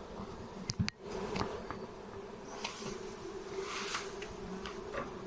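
Honeybees buzzing around an opened hive, a steady hum, with a few light clicks and knocks, the sharpest about a second in.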